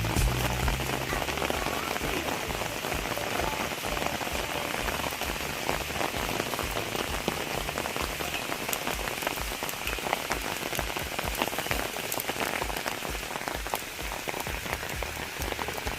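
Steady rain falling, with many small separate drop hits close by.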